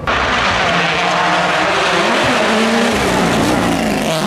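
Rally car driven at speed, its engine note rising and dipping over loud tyre and road noise. The sound cuts in abruptly at the start.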